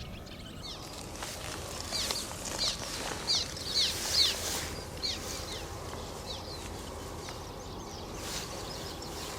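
A bird calling outdoors: a quick series of short, high, down-slurred chirps, a couple per second, for a few seconds in the first half, over a steady low outdoor background.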